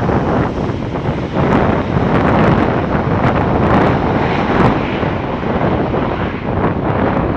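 Airbus A400M Atlas's four turboprop engines running steadily and loudly, mixed with heavy wind buffeting on the microphone.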